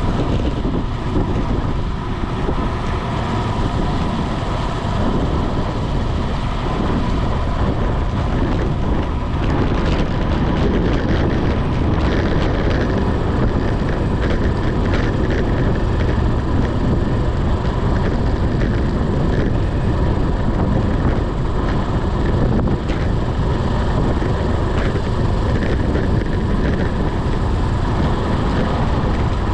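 Wind buffeting the microphone of a bicycle-mounted camera on a fast ride in the rain, a steady loud rush with road and tyre noise underneath. From about ten seconds in, scattered sharp ticks come through the rush.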